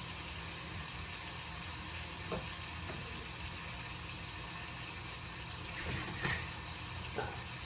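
Meat browning in a frying pan, sizzling steadily, with a few light clicks and taps now and then.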